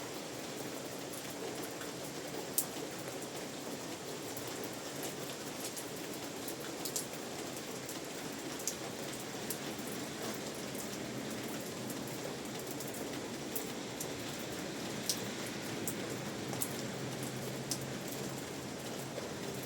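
Steady rain falling, an even hiss with scattered louder single drops tapping now and then.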